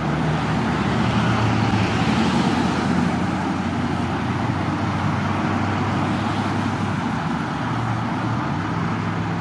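Vehicle engines running steadily with roadway traffic noise, a low steady hum under a broad rush.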